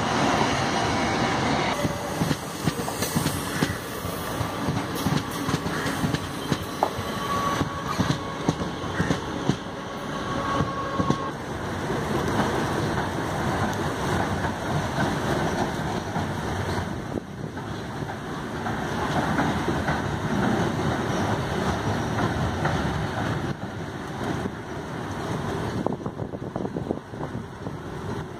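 Passenger train of LHB coaches running over a concrete river bridge: a steady rumble with a rapid, uneven clatter of wheels over rail joints, and a faint brief high wheel squeal about eight seconds in.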